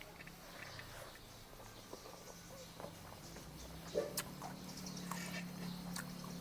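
Birds chirping faintly, with scattered small clicks, a single knock about four seconds in, and a low steady hum that grows louder in the second half.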